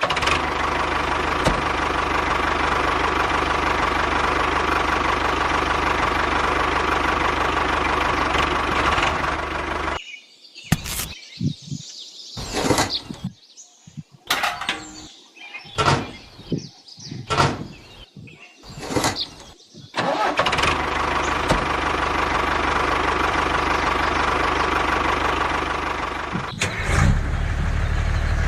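Engine running steadily. About ten seconds in it gives way to ten seconds of short, separate bursts and knocks, then runs steadily again.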